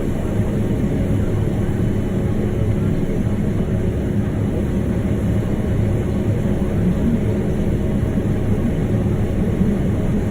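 Farm tractor's engine running steadily, heard from inside the cab as a constant low hum.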